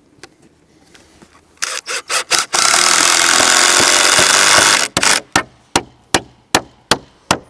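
A power tool runs steadily for about two seconds. Then a hammer drives a nail into a wooden fence board in a steady run of blows, about two and a half a second.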